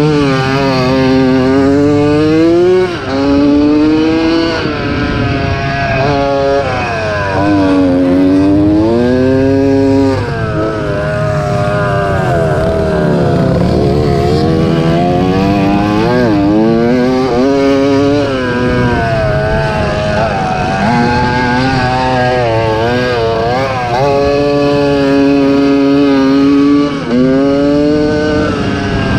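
1987 Yamaha YZ80's two-stroke single-cylinder engine revving hard under racing throttle, its pitch climbing and falling again and again as it accelerates and backs off. There are brief drops in loudness about three seconds in, about ten seconds in, and near the end.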